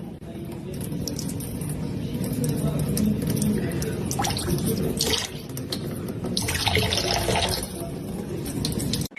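Water running, as from a tap, with a few sharper splashing sounds about four to five seconds in and again around seven seconds.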